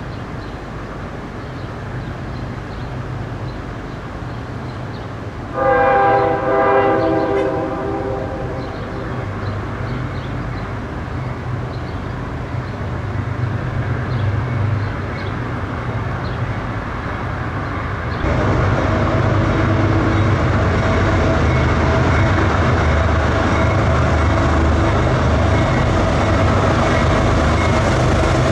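CSX freight train's diesel locomotives rumbling as they approach, with one horn blast of about three seconds starting some six seconds in. About eighteen seconds in the sound turns suddenly louder, with the engines and rolling train heard close.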